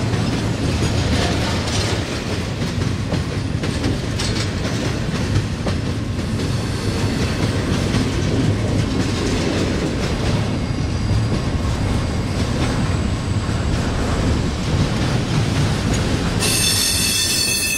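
Double-stack intermodal freight train's well cars rolling past close by: a steady low rumble of steel wheels on rail with intermittent clacks over rail joints. A high-pitched wheel squeal starts suddenly near the end.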